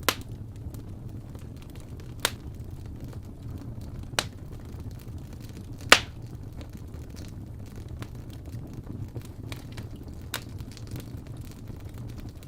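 Wood fire burning in a fireplace: a steady low rumble of flames with scattered crackles and a few sharp pops from the burning logs, the loudest about six seconds in.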